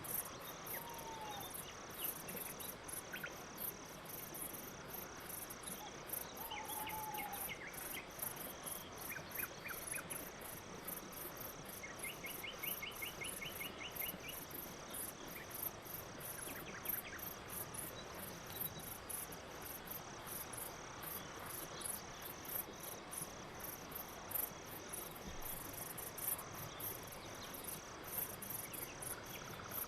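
Crickets chirping in a steady, evenly pulsed chorus, with other faint insect chirps and scattered brief pops.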